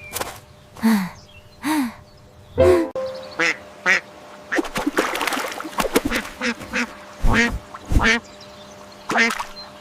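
Ducks quacking, a series of short separate calls one after another.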